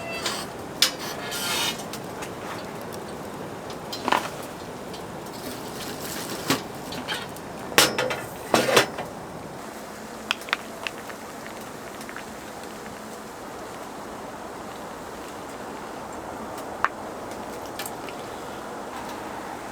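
Cookware and utensils clinking and knocking: a cluster of sharp clicks and clatters in the first half, then only a few single ticks, over a steady hiss.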